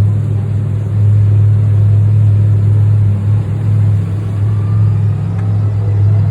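Race car engine idling steadily, loud and close, with a steady low note.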